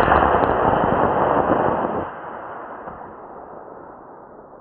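Model rocket's D20 solid motor firing on launch: a loud rushing hiss that cuts down abruptly about two seconds in, then trails away as a fading rush. The flyer takes the short burn for an erratic motor that spent its energy too quickly.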